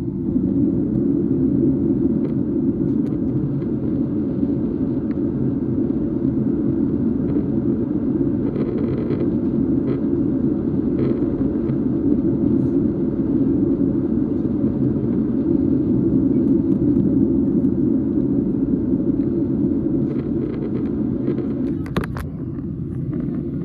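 Steady rumble of a Boeing 737's engines and airflow heard inside the passenger cabin. A sharp click comes near the end, and the rumble is a little quieter after it.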